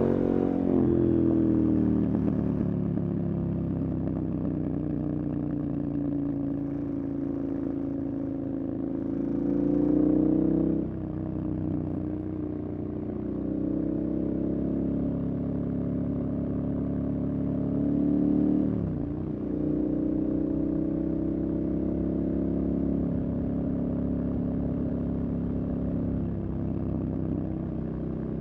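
Motorcycle engine running on the move, its pitch falling at first, then climbing steadily to about eleven seconds in, where it drops sharply. It dips again around nineteen seconds and picks back up, the rise and fall of throttle and gear changes.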